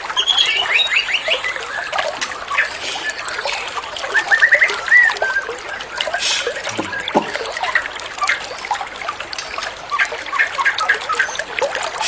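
Trickling, splashing water with a songbird calling over it in quick runs of short chirps: one falling run at the start and one rising run about four seconds in.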